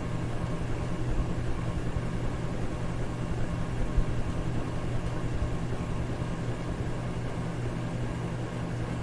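Electric fan running steadily: an even rush of air over a strong low hum, with no change in speed.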